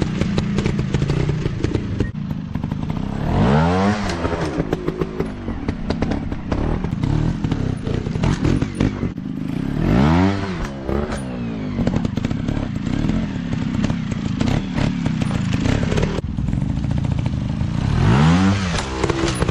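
Small dirt bike engine running, revved up hard three times, about every seven seconds, each rev rising quickly and dropping back, with clattering and knocking in between.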